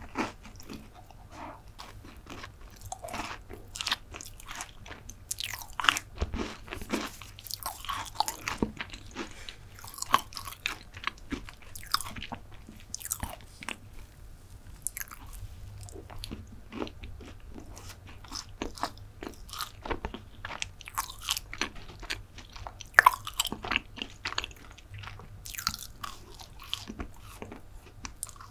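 Close-miked chewing and biting of chocolate desserts, a chocolate chip brownie among them: irregular clicking and crackling mouth sounds, with one louder crack about three quarters of the way in.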